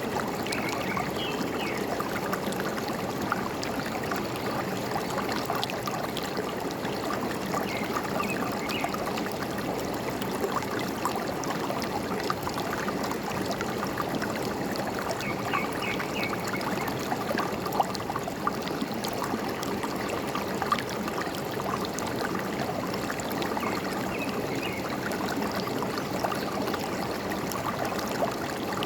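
A forest stream trickling and gurgling steadily, with a small bird giving short high chirps every seven or eight seconds.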